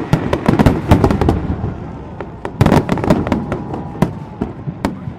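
Fireworks display: a dense run of shell bursts and crackle, with a heavy boom about two and a half seconds in.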